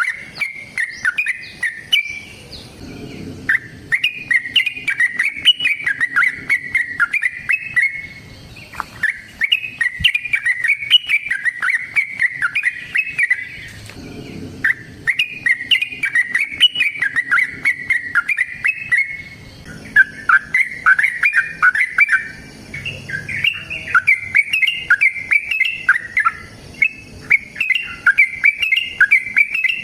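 Yellow-vented bulbul (trucukan) singing long, fast chattering phrases of quick chirping notes, with short breaks between phrases.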